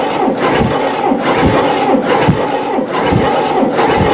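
Cadillac 472 V8 being cranked over by its starter without firing, during a compression test on cylinder 6. A steady rhythmic chugging, about one and a half pulses a second, as the cylinder pumps up the gauge; the reading comes to about 130 psi.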